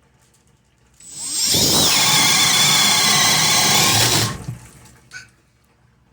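Makita XPH14 cordless hammer drill in speed 2 spinning up and boring a 1 1/4-inch Diablo paddle bit through a thick wooden header. The motor whine rises as it starts, runs loud and steady for about three seconds, then winds down as the bit passes through the wood.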